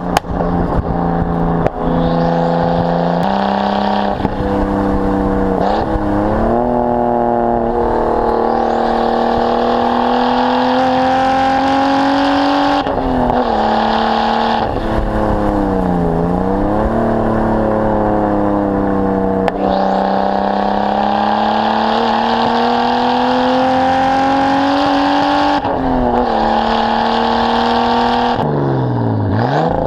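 Nissan Skyline R32's RB20DET turbocharged straight-six pulling hard through the gears. The engine note climbs steadily in each gear, with a sudden drop in pitch at each gear change every few seconds and a brief dip and recovery near the middle.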